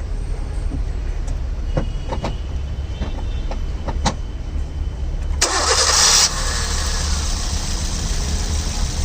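2011 Maruti Suzuki Swift Dzire VXI's petrol engine being started: a few light clicks, then about a second of cranking some five and a half seconds in, after which the engine catches and idles steadily.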